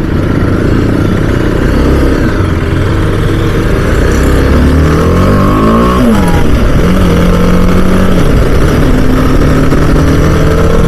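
Motorcycle engine running on the road, its pitch climbing for a couple of seconds and dropping sharply about six seconds in, with wind rushing over the helmet-mounted microphone.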